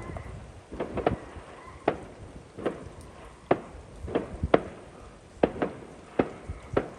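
Fireworks going off: a string of sharp bangs and pops at irregular intervals, about a dozen in all.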